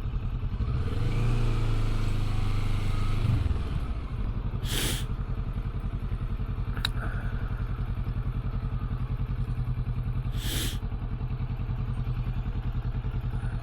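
Motorcycle engine easing off over the first few seconds, then idling with a steady, even low pulse. Two short hissy whooshes sound over the idle, about five seconds apart.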